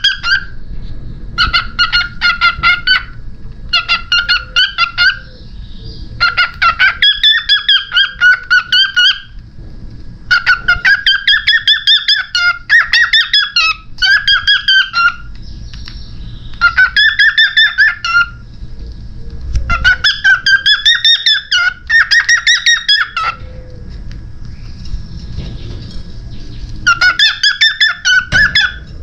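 Cockatiel calling in a run of short bursts of rapid chattering chirps, each burst a second or two long with brief pauses between.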